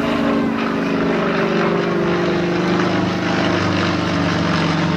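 Propeller-driven airplane flying past at an airshow, its engine note steady and drifting somewhat lower in pitch in the first couple of seconds.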